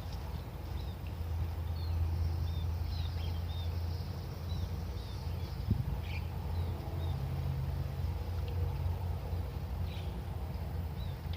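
Small birds chirping, short scattered notes, over a steady low rumble.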